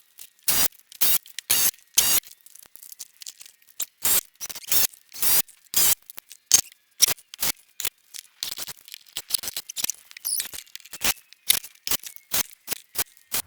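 A quick, irregular string of sharp clicks and knocks, about two or three a second, with dead silence between them.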